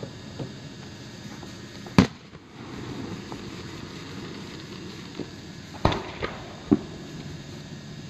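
Fireworks shells bursting: a series of sharp bangs, the loudest about two seconds in and two more close together around six seconds, with a few fainter pops between.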